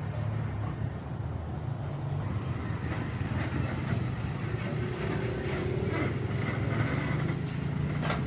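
Heavy truck engine running steadily, with scattered rattles and clicks and a sharp knock near the end.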